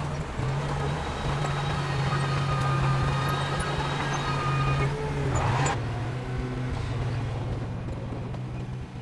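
Heavy diesel earthmoving machinery running steadily under load. Over five seconds in there is a single sharp clank, and the engine note changes after it.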